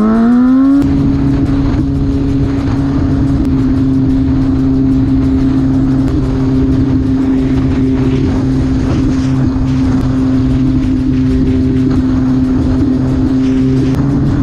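Inline-four sport motorcycle engine pulling up in revs for about a second, then holding a steady high-revving pitch at constant speed.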